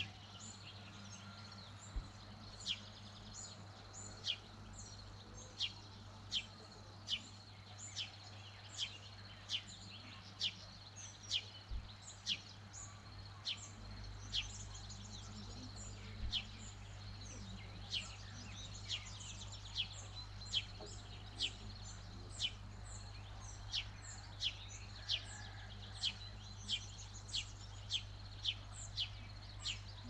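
A bird repeating a short, sharp call that sweeps down in pitch, about once every three-quarters of a second, over faint twittering from other birds. A low steady hum lies beneath.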